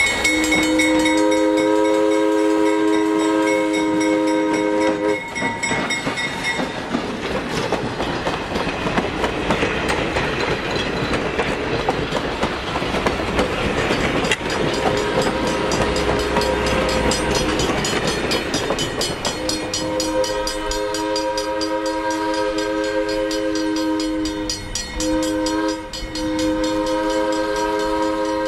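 Diesel locomotive's multi-note air horn sounding a long blast, then the train passing with a steady rumble and the clatter of wheels on rail joints. The horn sounds again in long blasts near the end, with a brief break between them.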